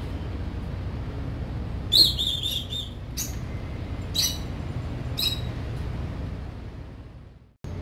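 Birds chirping over a steady low background hum: a short high trill about two seconds in, then single short calls about once a second. The sound fades away near the end.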